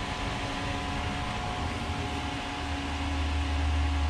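Fan of a hot-water radiator heater, fed by an outdoor wood boiler, running steadily: an even whirring hiss with a steady motor hum, the low hum growing stronger about two and a half seconds in.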